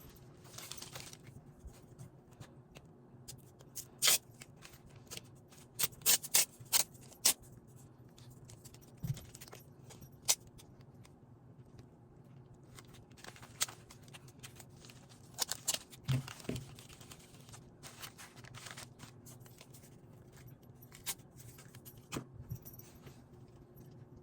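Cricut Joy cutting machine running a cut, a faint steady motor hum, with scattered sharp clicks and taps.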